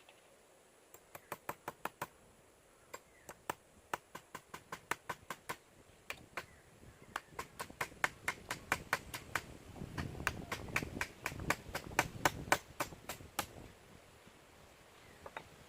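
Runs of quick, sharp taps, about four or five a second, with a low rumbling handling noise under them between about ten and thirteen seconds in.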